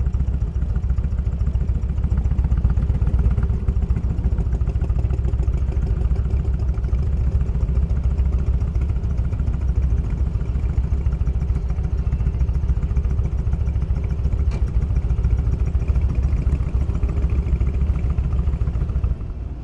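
Motorcycle engine running steadily, heard from the bike itself, with most of its sound low in pitch. The sound drops off just before the end.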